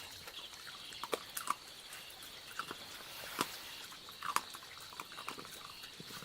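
Animals feeding: scattered sharp clicks and taps, with a few short calls, the loudest about a second and a half in and near four and a half seconds.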